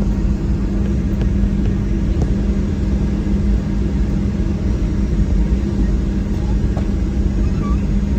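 Cabin noise inside a Boeing 737-800 before takeoff: a steady low rumble with a constant droning hum from the aircraft's engines and air systems, heard from a passenger seat.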